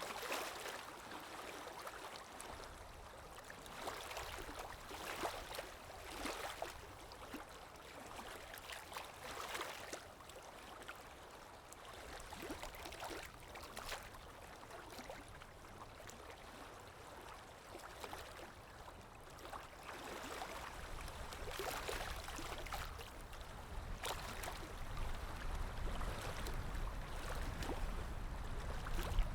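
Calm sea waves lapping gently, with soft washes every second or two; a low rumble of surf builds in the last third.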